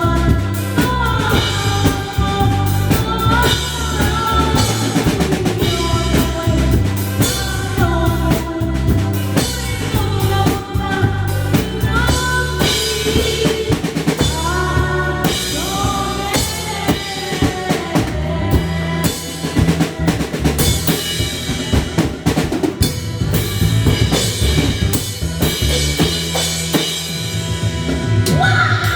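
Drum kit played live along to a song: bass drum, snare, rimshots and cymbals keeping a busy beat, with fills and rolls, over a bass line and a melody.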